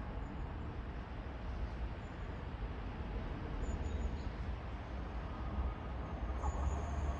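ScotRail Class 385 electric train approaching a station platform: a steady low rumble that grows louder toward the end, with a faint steady whine joining in about six seconds in.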